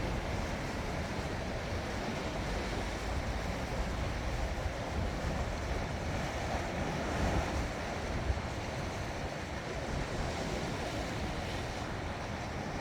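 Sea waves washing on the shore, a steady surf noise, with wind buffeting the microphone in low rumbles.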